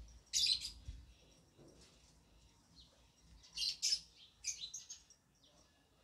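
Small birds chirping in sharp, high-pitched bursts: one burst about half a second in, then a cluster of several between about three and a half and five seconds.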